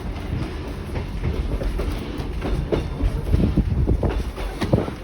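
Passenger train carriage running along the track: a steady low rumble with wheels clacking over rail joints, the knocks coming closer together in the second half.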